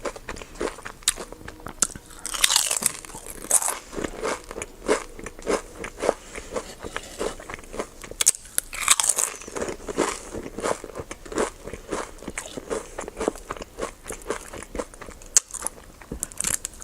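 Close-miked eating of crunchy food: crisp bites and steady chewing with rapid crackles several times a second, and a few louder crunches.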